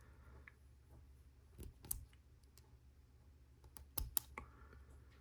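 Faint clicks of plastic Lego Technic pieces being handled and pressed together: a couple of clicks a little under two seconds in, then a quick cluster of sharper clicks about four seconds in.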